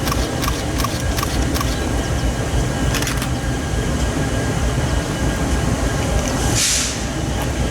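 Freight train rolling past with a steady low rumble. For the first second and a half its wheels click about three times a second, as they do over rail joints. A short hiss comes about six and a half seconds in.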